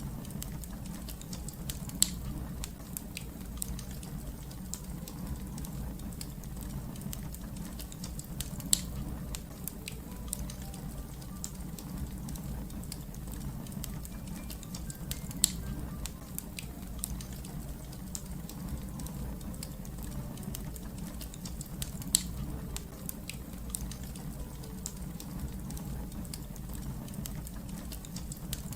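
Wood fire crackling steadily over a low rumble of flame, with small snaps throughout and four loud sharp pops about six to seven seconds apart.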